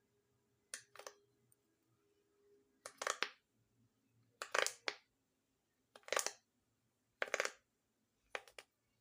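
Bubbles of a handmade pop-it fidget toy being pressed. The sharp pops come in about six short clusters, one to three pops each, roughly every second and a half.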